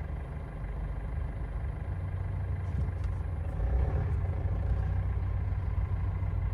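GAZelle Next light truck's engine running steadily, a low hum that grows a little louder about four seconds in.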